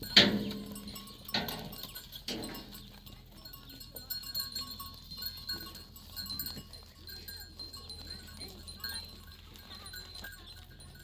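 A flock of sheep bleating: three loud bleats in the first two and a half seconds, the first the loudest, then fainter calls from the flock.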